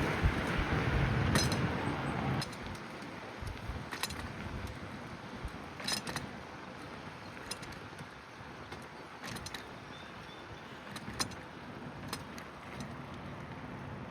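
Bicycle rattling and clicking as it rolls over the road, sharp metallic ticks every second or two over a steady rush of tyre and wind noise. A louder rush of passing traffic fills the first two seconds, then cuts off.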